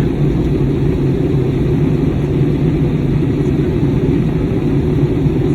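Steady low rumble of an Airbus A320neo's cabin noise, engines and airflow, heard from inside the cabin with no change in level.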